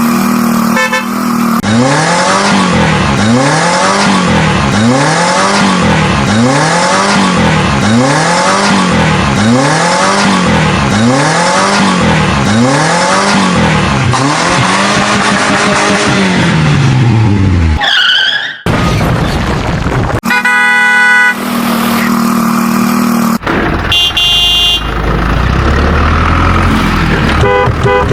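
A string of vehicle horn sound effects. It opens with a held horn blast, then a tone that slides up and down in pitch about once a second for some sixteen seconds. Short chirps, a quick run of toots and another held blast follow, and a low rumble comes in near the end.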